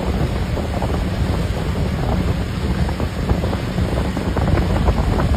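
Strong wind buffeting the microphone: a loud, steady rumble with constant crackling.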